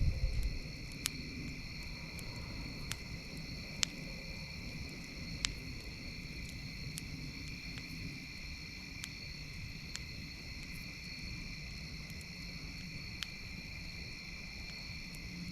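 Campfire crackling, with a dozen or so sharp pops scattered through, over a steady high chirring of crickets or other night insects. A brief low rumble comes right at the start.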